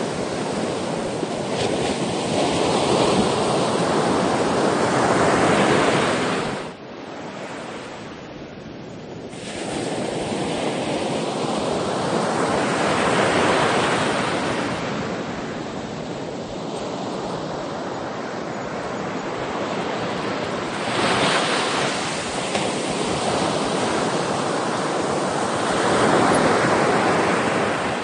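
Ocean waves breaking and washing on the shore in slow, repeated surges, with a lull about seven seconds in before the next wave builds.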